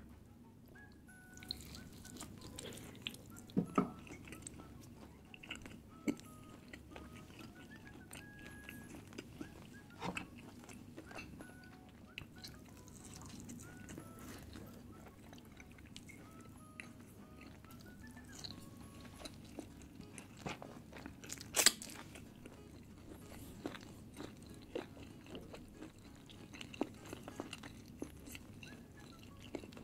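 Close-miked chewing and mouth sounds of a person eating naan bread with chutney, with scattered small crunchy clicks. One sharper click about two-thirds of the way in is the loudest.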